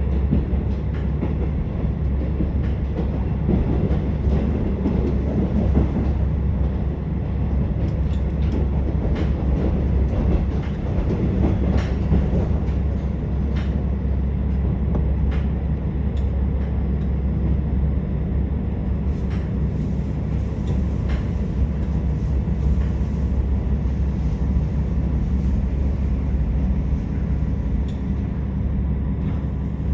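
Interior of a KiHa 47 diesel railcar running along the line: a steady low rumble of the diesel engine and wheels, with scattered clicks from the rails.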